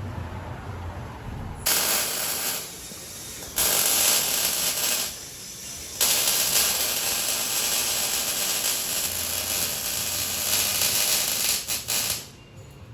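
Pneumatic shop tools working on a car's exhaust, a hissing air-tool whir in three bursts. The last and longest runs about six seconds before stopping near the end.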